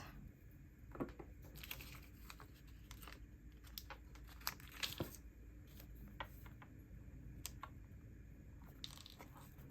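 Faint paper and sticker handling: a small sticker dot peeled off its backing sheet and pressed onto a journal page, heard as scattered light clicks and rustles.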